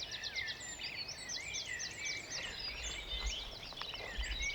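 Dawn chorus: many songbirds singing at once, a dense overlap of quick chirps and trills. A low rumble joins about three seconds in.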